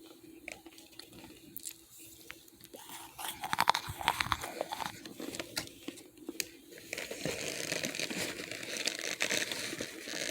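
Biting and crunching on hard chunks of dried starch, with scattered sharp crunches, then from about seven seconds a steady crinkling of a bag being handled.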